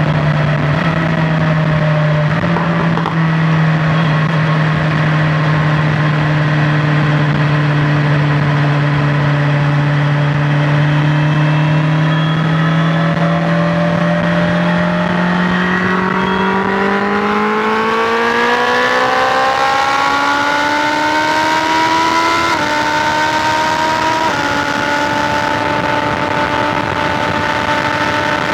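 BMW S1000XR's inline-four engine running at a steady highway cruise, then rising in pitch over several seconds as the bike accelerates, with two quick dips in pitch near the end as it shifts up, after which it holds steady.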